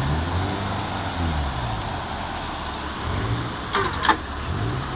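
Jeep Cherokee's engine revving in repeated surges, rising and falling, as it works the stuck vehicle through mud. Two sharp knocks come about four seconds in.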